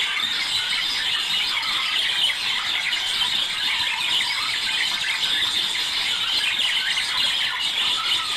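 Budgerigars chattering and warbling without pause, a dense mix of high-pitched chirps, squeaks and twitters.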